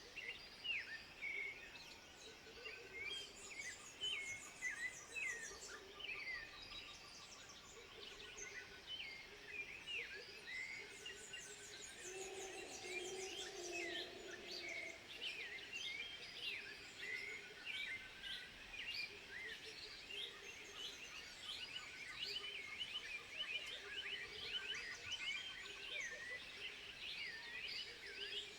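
A dense chorus of many short, high chirping calls from several animals, with rapid trills repeating underneath. A lower, longer call stands out about twelve seconds in.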